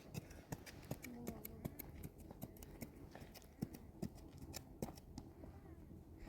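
Faint, scattered light clicks and taps at an uneven pace, with a brief faint murmur of a voice about a second in.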